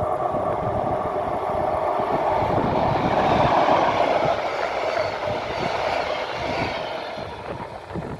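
A train passing by, growing louder to a peak about three and a half seconds in, then fading away.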